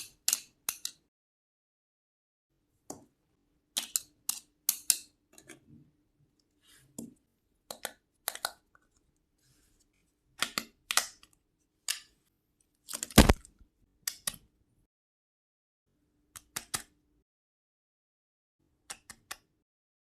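Small plastic miniature toy kitchen pieces clicking and tapping as they are handled and set down: scattered sharp clicks in small clusters, the loudest a solid knock about two-thirds of the way through.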